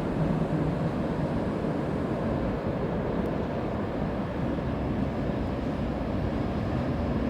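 Tram running through a tunnel: a steady low rumble of wheels on rails and running gear, with a faint hum.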